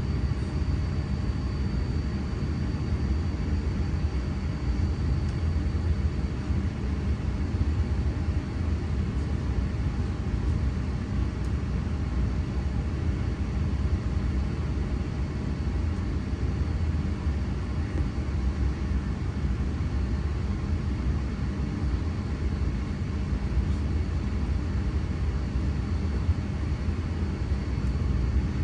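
Train running at steady speed: a continuous low rumble with a faint steady high whine above it.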